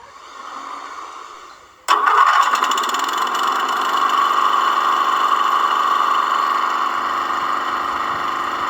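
A motor switches on about two seconds in and keeps running steadily with a constant whine.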